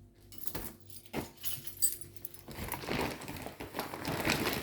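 A few light clicks, then a bunch of keys being picked up and jangling, the rattle growing busier and louder in the second half.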